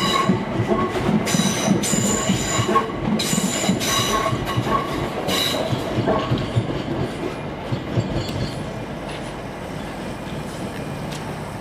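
Train wheels squealing on the rails in repeated high-pitched bursts over a low rumble as a train moves slowly through the station. The squeals stop about halfway through, leaving a quieter rumble that fades.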